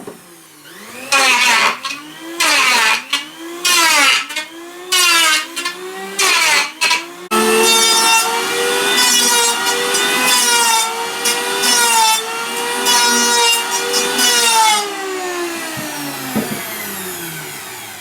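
A power saw cutting wood. Over the first few seconds it makes a string of short cuts, its motor pitch dipping under load and recovering each time; about seven seconds in it settles into one longer cut, and near the end the motor winds down.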